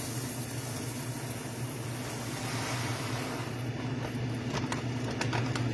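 Air fryer running with a steady hum and fan rush, with a few light clicks and rattles about four to five seconds in.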